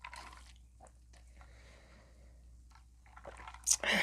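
Faint close-up chewing of food, with small scattered mouth clicks, and a louder brief mouth sound near the end.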